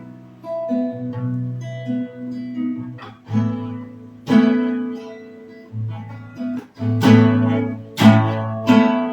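Acoustic guitar played solo, plucking and strumming chords that ring out and fade, with firmer strums in the second half.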